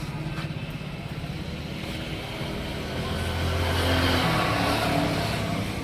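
A motor vehicle engine running steadily, growing louder about three seconds in and easing off again near the end.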